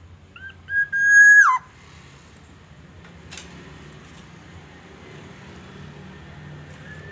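Black-naped oriole (kepodang) calling: two short whistled notes lead into a loud, held whistle that drops sharply in pitch at its end. A single sharp click comes a couple of seconds later, and a faint short whistle near the end.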